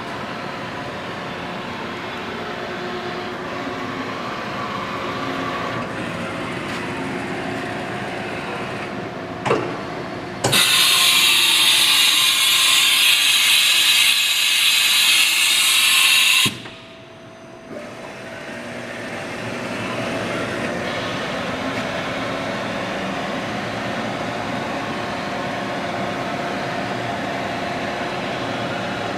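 Haas TM-1 CNC vertical toolroom mill running with a steady mechanical hum. About ten seconds in, a loud hissing rush starts abruptly, lasts about six seconds and cuts off sharply, after which the running sound briefly drops and then builds back up.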